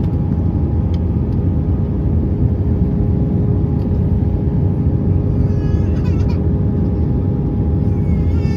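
Airbus A320 cabin noise in flight: the engines and airflow make a steady low rumble, with two steady hum tones running over it.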